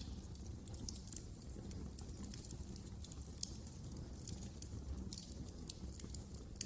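Wood fire crackling in a fireplace: frequent irregular snaps and pops over a low, steady rumble of burning.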